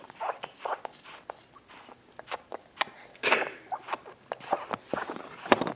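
Baby mouthing and chewing a plastic toy on a bouncer activity seat: scattered mouth sounds and irregular plastic clicks and taps, with a sharper click near the end.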